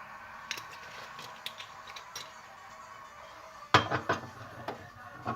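Kitchenware clinking and knocking: a few light clicks in the first two seconds, then a cluster of louder knocks a little before four seconds in, with two more near the end.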